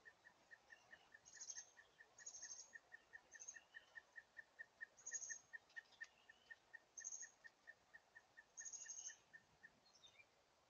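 Faint bird calls: a steady run of short high pips, about five a second, with six brief higher chirps over it.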